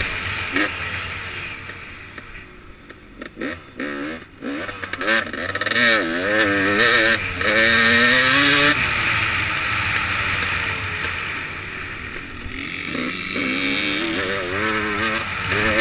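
KTM 300XC's 300 cc two-stroke single-cylinder dirt bike engine revving up and down under riding, the throttle chopped and reopened. The engine drops quieter a few seconds in, then climbs and wavers through its loudest revs near the middle before settling.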